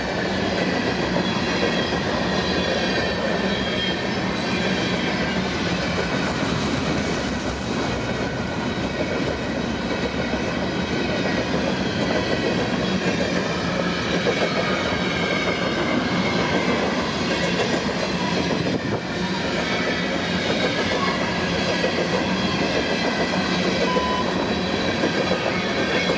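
CN freight train rolling steadily past, its wheels clattering over the rail joints, with thin high squealing tones from the wheels.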